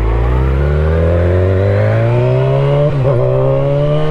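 Motorcycle engine accelerating, its pitch rising steadily, with a quick dip about three seconds in as it shifts up a gear, then climbing again.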